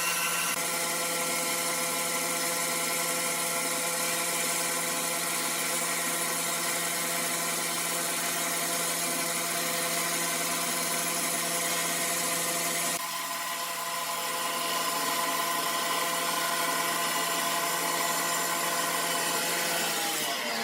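Sawmill machinery running steadily, a saw working through timber with a constant whine of several fixed pitches over a hiss. The sound drops and shifts about two-thirds of the way through.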